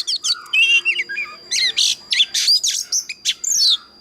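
Oriental magpie-robin singing a fast, varied song of loud whistles, rising and falling sweeps and harsh notes, which stops shortly before the end.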